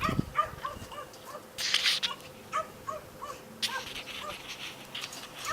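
A dog whimpering in a string of short, high whines, about two a second, with a couple of brief rustles in between.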